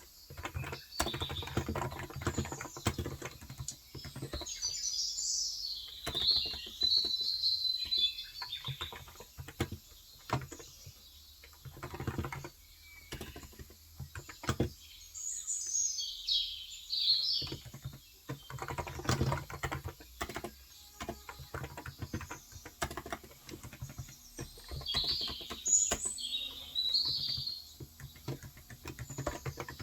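Typing on a Cox Endeavor electro-capacitive keyboard with 35 g switches: runs of quick keystrokes broken by short pauses. Birds chirp behind it in three short spells, near the start, in the middle and near the end.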